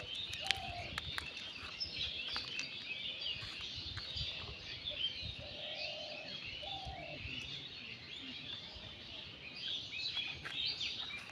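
Many small birds chirping at once in a dense, continuous chorus of short high chirps, with a few short lower calls around the middle.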